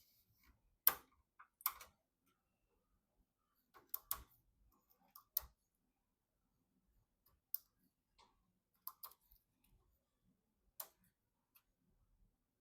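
Scattered light clicks and knocks of computer parts and tools being handled during PC assembly, irregularly spaced with short quiet gaps between them; the sharpest click comes about a second in.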